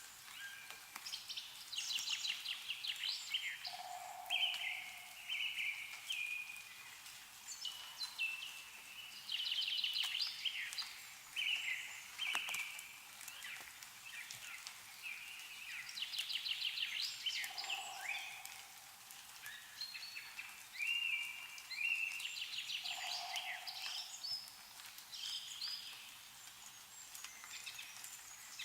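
A songbird singing the same phrase over and over, about every six to seven seconds: a rapid high trill followed by a run of stepped notes. A few short, lower calls come in between, and there is a faint ticking of meltwater dripping from the trees.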